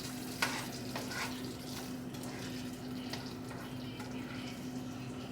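Steady low hum and hiss of a kitchen background, with a few faint light clicks.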